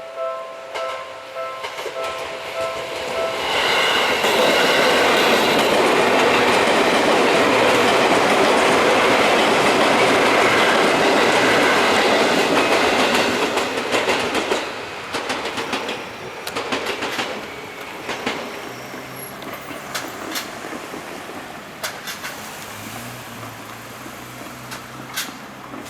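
Level-crossing warning bells ringing in a steady repeating pattern. About three and a half seconds in, a six-car Seibu electric commuter train passes over the crossing, loud for about ten seconds, then its wheels click over the rail joints as it fades. A low steady hum follows near the end.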